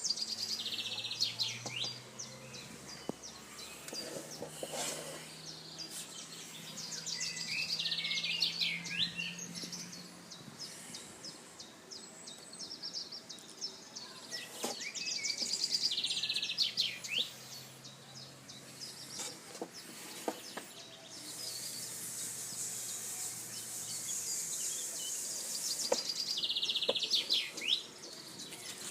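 Birds singing: a trilled song phrase repeats about every seven seconds, with thinner chirps between, over a faint low steady hum during the first third.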